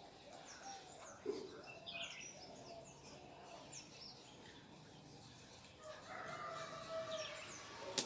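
Faint background birds chirping, many short high calls, with a longer held call in the last two seconds. Two sharp clicks, about a second in and just before the end.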